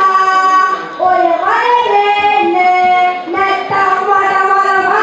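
Children singing a song, with notes held and sliding up between phrases.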